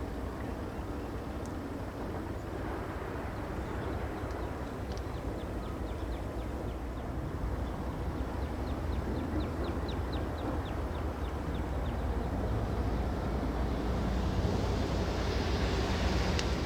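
Diesel freight locomotive running as it moves down the yard track, its low engine rumble growing louder toward the end. A rapid run of short high chirps sounds in the middle.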